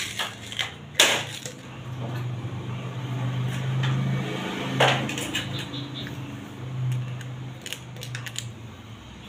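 Metal clinks and knocks from tools and refrigerator parts being handled, with sharp knocks about a second in and near five seconds, over a steady low hum that swells and fades.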